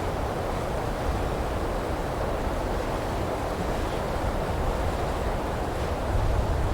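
Wind blowing through pine trees, a steady rushing noise with a low rumble that swells a little near the end.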